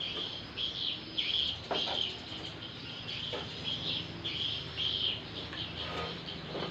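A bird chirping, a steady series of short high calls repeating under two times a second, with a few light clicks among them.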